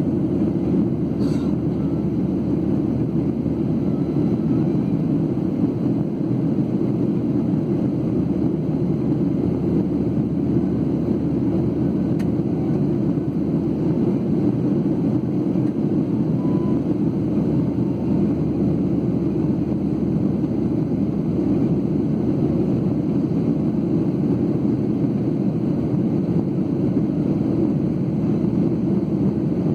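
Steady low cabin drone inside a Boeing 737-8 (CFM LEAP-1B engines) in flight after takeoff: engine and airflow noise heard through the fuselage, unchanging throughout.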